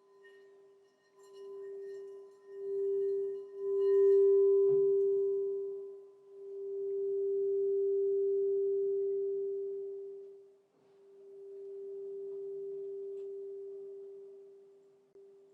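Crystal singing bowl sounding one clear, steady tone that swells and fades in long waves, with fainter higher overtones dying away in the first few seconds. A light knock comes about five seconds in.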